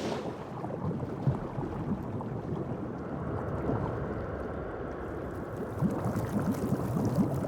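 Shallow seawater sloshing and bubbling, a steady rush with many short bubbly gurgles that thicken in the second half.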